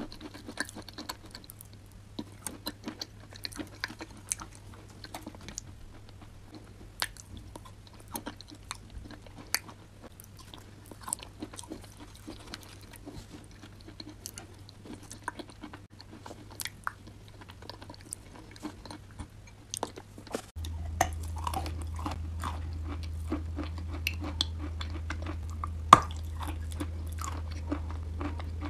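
Close-miked chewing of clay and chalk coated in wet paste, with many sharp crunches and wet mouth clicks. About twenty seconds in, a steady low hum starts under the chewing, and a single loud crunch follows a few seconds later.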